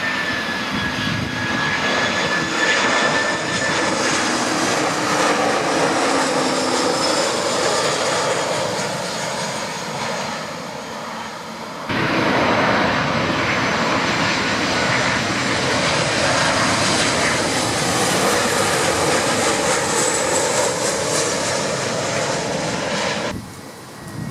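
Jet airliner engines running loud as aircraft pass close by: a dense roar with whining tones that drift slowly in pitch. About halfway through the sound cuts abruptly to another pass, and it drops away suddenly near the end.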